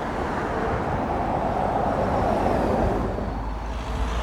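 Road traffic passing: a steady rumble of car engines and tyres that swells about halfway through and eases briefly near the end.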